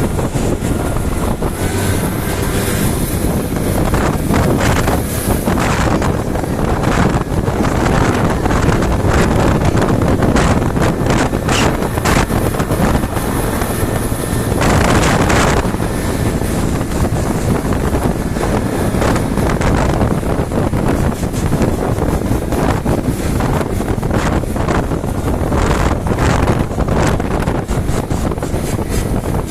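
Wind buffeting the microphone on a moving motorcycle, over a steady rush of engine and road noise, with frequent short gusts.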